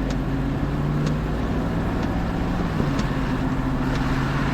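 Car engine hum and road rumble heard inside a moving vehicle, with a faint tick about once a second.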